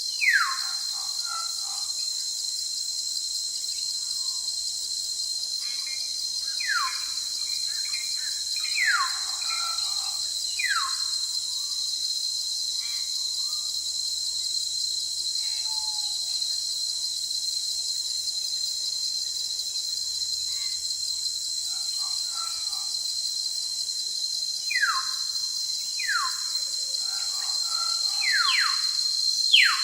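Forest ambience: a steady, high-pitched insect chorus, crickets or similar, runs throughout. Over it a bird gives short whistled calls that slide sharply downward, about eight of them, several in quick pairs.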